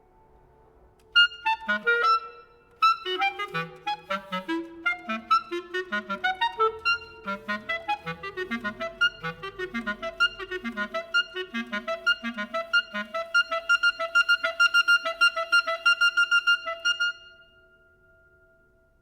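Contemporary chamber ensemble of flute, clarinet, violin, double bass and piano playing. Soft held tones give way to sharp accents a little over a second in, then fast repeated short notes, about four a second, run over a held high note. The repeated notes stop near the end, leaving the held note sounding faintly.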